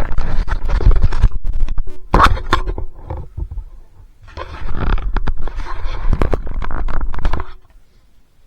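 Loud rumbling and scraping noise on the microphone, coming in three surges with many small knocks, and stopping sharply about three-quarters of the way through.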